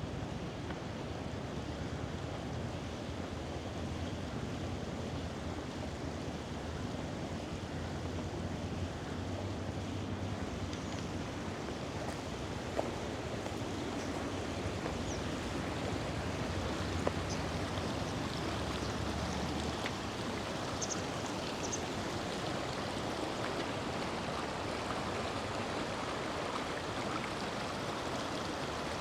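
Steady rush of river water flowing, with a few faint short high chirps partway through.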